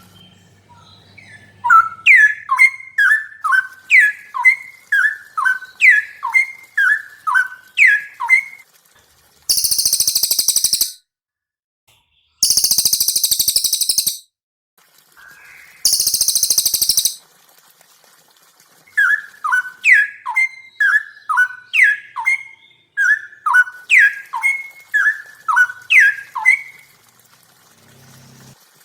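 Cage-bird song of a cililin and a straw-headed bulbul: two long runs of quick, sharp, downward-slurring whistled notes, with three short bursts of a very high, shrill, buzzy trill in between.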